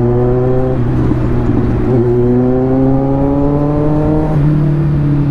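Kawasaki Z900's inline-four engine accelerating up through the gears under the rider: its pitch climbs, drops at a shift about a second in, climbs again, and drops at another shift near the end.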